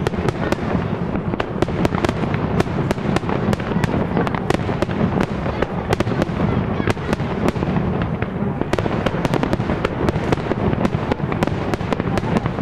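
Aerial fireworks display: a dense, continuous string of sharp bangs and crackles, several a second, over a steady low rumble.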